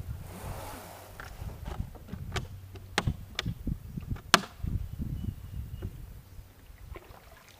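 Fishing gear being handled aboard a kayak: scattered sharp clicks and knocks over irregular low thumps, the two loudest knocks about three and four and a half seconds in.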